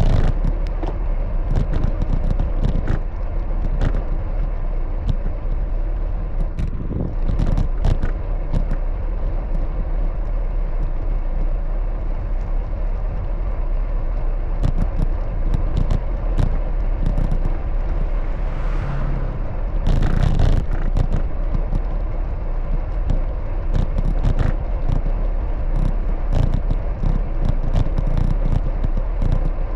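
Riding a bicycle through city traffic: wind rumbling on the microphone over road and traffic noise, with scattered small rattles and knocks. A brief high rising whine comes about nineteen seconds in, followed by a louder rush.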